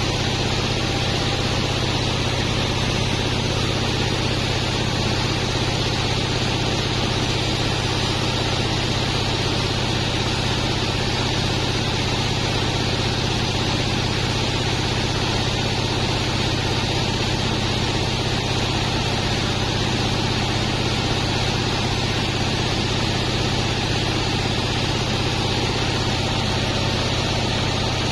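Large sawmill bandsaw running steadily, a constant low hum under a broad hiss with no change in pitch or level.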